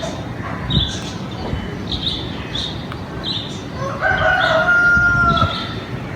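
A rooster crowing once, a long call held about a second and a half starting some four seconds in, over repeated short high chirps from small birds.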